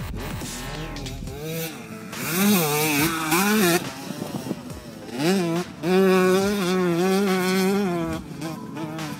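Yamaha YZ two-stroke dirt bike engine being ridden hard, its pitch rising and falling with the throttle in two spells of revving, the second held high for a couple of seconds.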